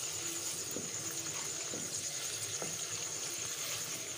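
Ground ginger and garlic sizzling steadily in hot ghee, with a few light knocks of a wooden spatula against the pan as it is stirred.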